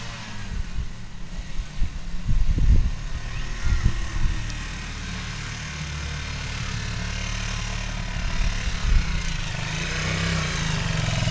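Dirt bike engine running at low revs with a steady, rapidly pulsing note, growing louder near the end. A few thumps come about two to four seconds in.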